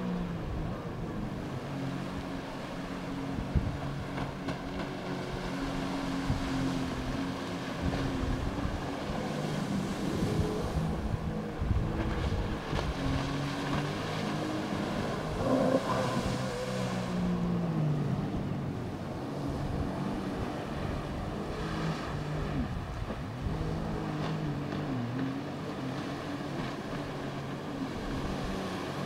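Jet ski engine running, its pitch rising and falling as the throttle changes, over the rush of water and wind.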